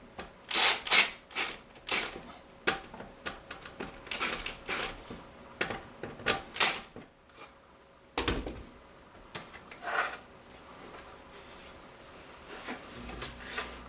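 A string of irregular sharp clicks and knocks from hand work on the washer door's hinge and screws, with a heavier thump about eight seconds in.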